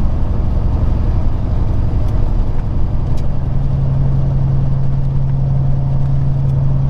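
Peterbilt 379's diesel engine running steadily, heard from inside the truck's cab as a steady low drone.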